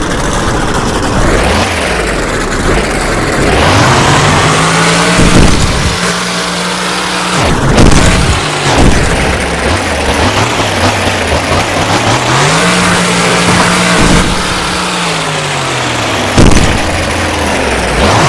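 Monster truck engine running hard and loud, revving up to a high pitch and dropping back twice as the truck makes its run. Two sudden loud bangs cut through, one about eight seconds in and one near the end.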